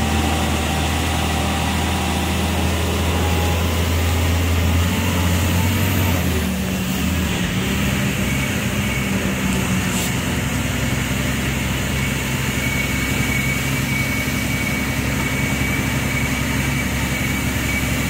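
Vehicle engine running steadily on the road, its note changing about seven seconds in.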